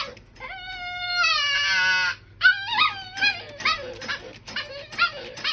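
A dog howls once for nearly two seconds, its pitch sliding slowly down, then gives a quick string of short whining yips, several a second.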